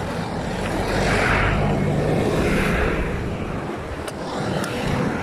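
Steady road noise of passing motor traffic mixed with wind rush on the microphone while riding a bicycle along the road, swelling about a second in and easing off toward the end.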